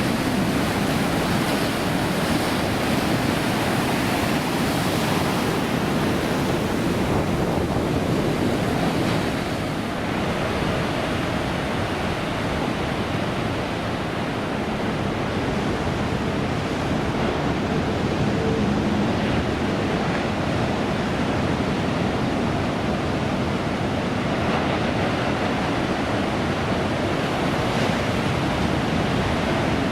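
Ocean surf: a steady wash of breaking waves, with wind on the microphone.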